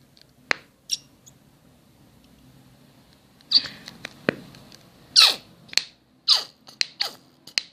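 A plastic glue bottle squeezed near empty: a few light clicks, then from about halfway a run of short squeaky sputters as air and the last of the glue squirt out.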